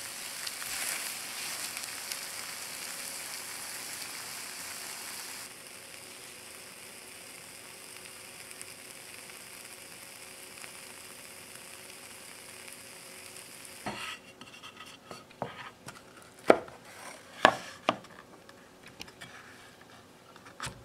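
Egg omelet sizzling in a rectangular omelet pan; the sizzle drops abruptly to a fainter hiss about five seconds in. From about fourteen seconds on come a handful of sharp knocks and clacks as the pan and spatula are handled and the omelet is turned out onto a wooden board.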